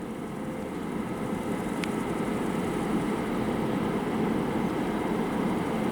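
VL80S electric locomotive with a freight train approaching: a steady hum and rumble that grows gradually louder. A brief high click comes about two seconds in.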